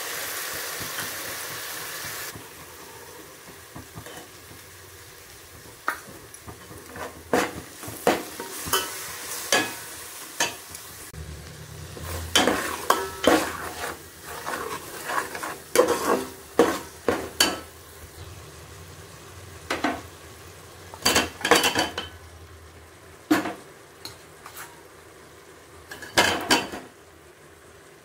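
Ginger-garlic paste hitting hot oil and fried onions in a metal pot with a loud sizzle for the first couple of seconds. Then a softer, steady frying sizzle runs under a steel spoon that repeatedly scrapes and clinks against the pot as the curry is stirred.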